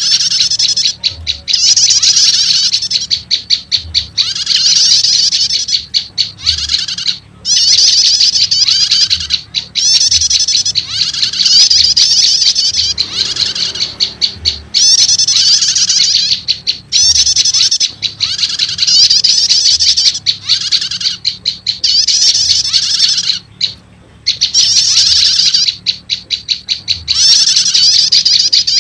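Looped bird-lure recording of prenjak lumut calls: rapid, high-pitched chirping trills in repeated bursts of a second or two, separated by short pauses, over a faint low hum.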